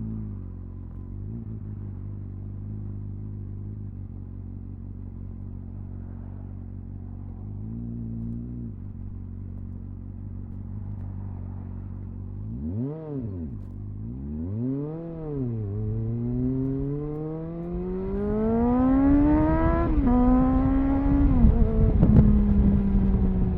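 Triumph Speed Four's 600cc inline-four engine ticking over steadily, then blipped twice and pulling away: the revs climb, shift gear near the end, and then ease off, with wind noise building as the speed rises.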